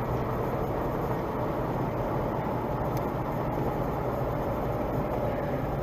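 Steady driving noise of a moving car: road and engine rumble with a low, even hum, as picked up by a dash camera.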